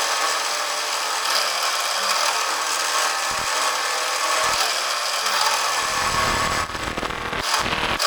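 A power tool working material with a steady rasping, rubbing noise; a deeper rumble joins about six seconds in, for a little over a second.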